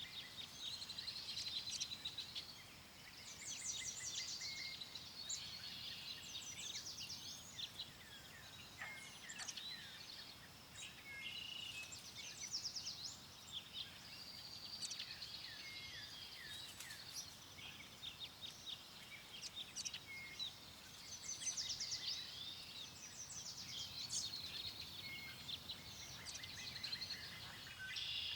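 Several small songbirds singing and chirping at once, overlapping trills and quick chirps throughout, over a faint steady background hiss.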